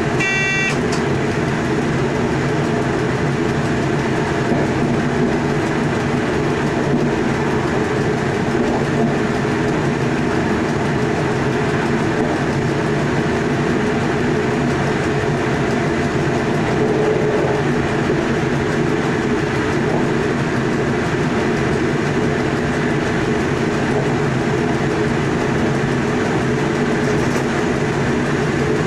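Electric passenger train heard from inside the driver's cab while running at speed: a steady rumble of wheels on the track with an even electric hum. About half a second in, a short bell-like ding sounds once, the cab signalling bell that rings when the train passes a signal showing proceed.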